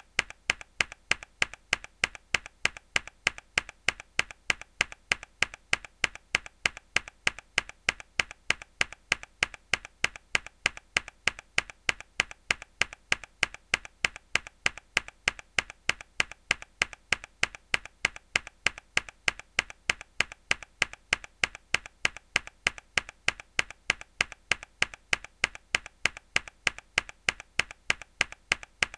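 Mechanical keyboard key pressed hard, a sharp click repeated in an even, unchanging rhythm several times a second.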